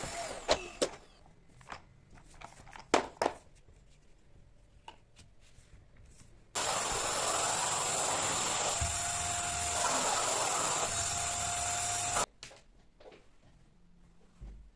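A few sharp clicks and knocks, then a vacuum cleaner running with a high steady whine for about six seconds, switching on and cutting off suddenly.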